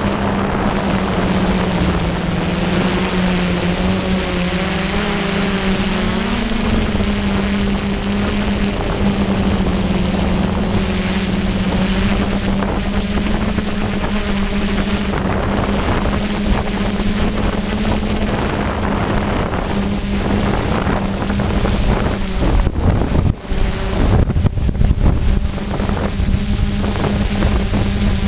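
DJI F550 hexacopter's brushless motors and propellers running in flight, a steady hum whose pitch wavers briefly a few seconds in. Strong wind buffets the microphone, rumbling more heavily and in gusts in the last third.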